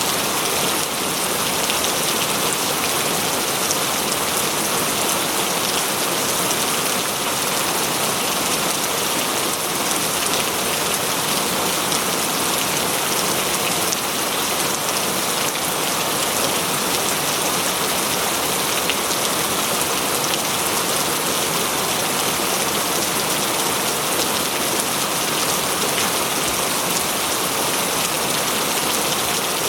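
Steady rain falling, with fine drops pattering on surfaces.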